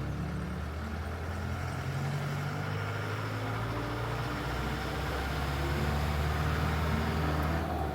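Safari vehicle's engine running steadily, a low even hum.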